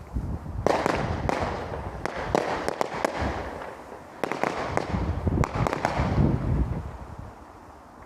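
Fireworks going off in two runs of rapid, sharp crackling pops. The first starts under a second in and eases off around four seconds; the second dies away a little before the end.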